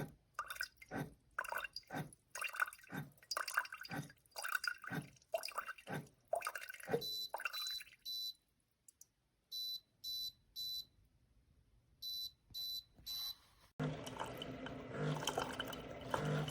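Irregular sharp drips, one or two a second, then a coffee maker beeping three times, three times over. Music comes in near the end.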